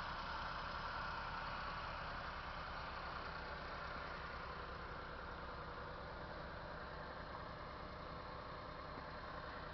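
An engine idling steadily, with a low, even pulse.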